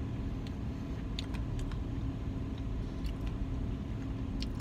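Steady low hum of a car idling, with scattered faint light clicks and taps over it.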